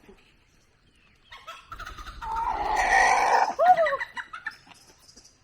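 Chickens calling: a harsh, drawn-out call from about two seconds in, followed by short clucks that rise and fall in pitch.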